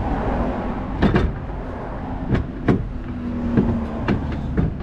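Scattered sharp metallic knocks and clanks of tools and parts being handled during gearbox removal on a car, over a steady low hum.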